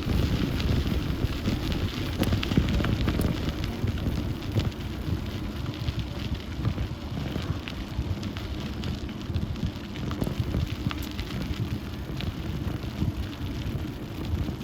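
Bicycle tyres rolling over a gravel-and-dirt towpath: a steady crunching rumble with many small crackles, with wind noise on the microphone.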